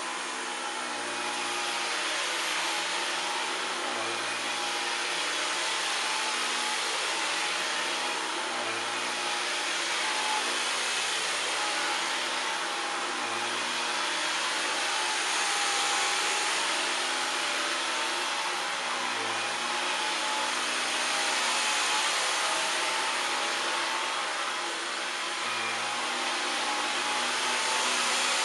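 Dyson V15 Detect Absolute cordless stick vacuum running steadily on its auto setting, a rush of air with a motor whine. Its level swells and dips a little as it raises or lowers suction with the amount of debris on the floor.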